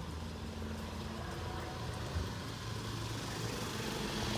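Street traffic: a vehicle engine running with a steady low hum, and the noise of traffic growing louder near the end.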